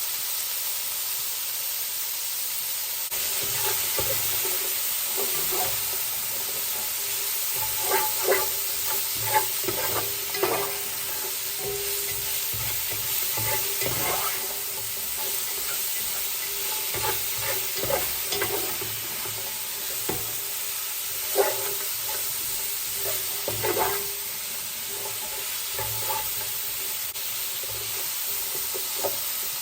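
Chopped onion and celery sizzling as they stir-fry in hot oil in a pan. A spatula scrapes and knocks against the pan at irregular moments.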